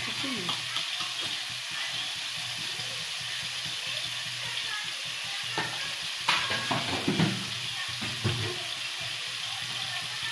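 Chopped leafy greens frying in a pan with a steady sizzle. A few sharp knocks and short scrapes come about six to eight seconds in.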